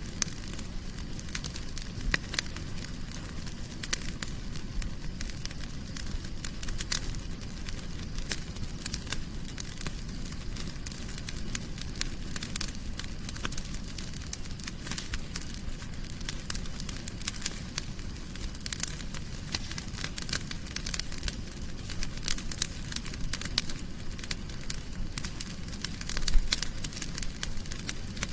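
Wood fire burning in a fireplace: steady crackling with many small irregular snaps and pops, one louder pop near the end.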